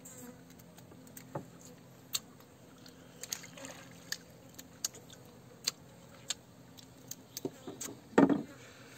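Close mouth sounds of someone chewing fruit: scattered sharp clicks and smacks, with a short louder burst about eight seconds in, over a faint steady low hum.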